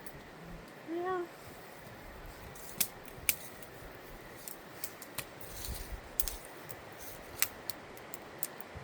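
Wood campfire crackling: sharp, irregular pops and snaps, a few louder ones standing out, over a steady low hiss.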